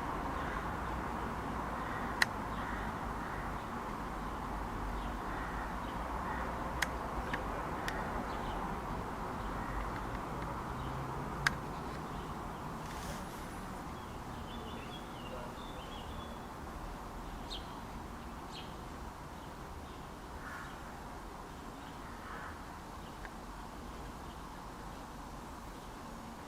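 Morning outdoor ambience: birds calling sparsely, with short chirps and a few coarser calls in the second half, over a steady background hiss that slowly fades. Four sharp clicks stand out in the first half.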